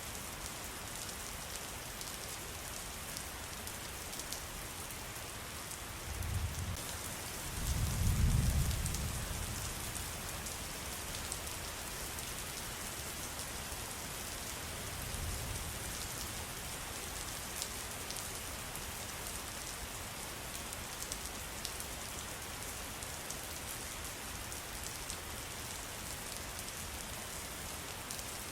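Steady patter of rain, with a few brief low rumbles about six, eight and fifteen seconds in, the one near eight seconds the loudest.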